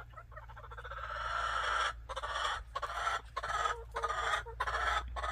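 Agitated hen squawking and clucking: the calls build up over the first second or so into a loud, harsh, near-continuous run broken by short pauses. It is the sound of an upset, complaining hen.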